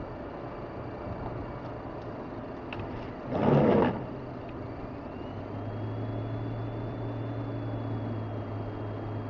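Steady road and engine noise of a car driving on a highway, heard from inside. A little over three seconds in comes one loud, brief burst of noise, and from about five and a half seconds a steady low hum joins in.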